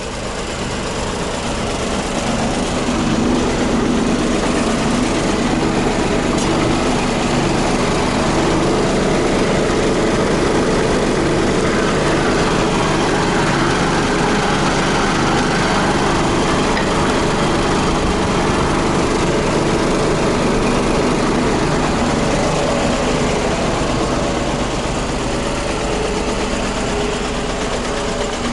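Scania 124 420 truck's inline-six diesel engine running steadily, growing louder over the first few seconds and then holding an even note.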